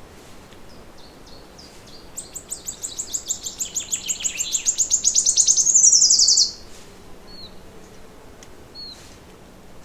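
A songbird's long trill: rapid high notes that speed up and grow louder for about four seconds, then stop abruptly. A few short single chirps follow.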